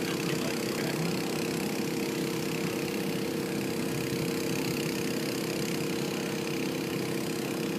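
An engine idling with a steady, even hum that does not change.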